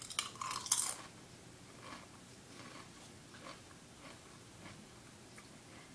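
A person bites into a crisp potato chip with a loud crunch in the first second, then keeps chewing it with faint, irregular crunches.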